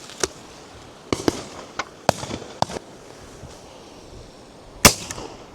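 A run of shotgun shots from the guns along the shooting line, about seven sharp reports at uneven spacing, some fainter and farther off. The loudest and closest comes near the end.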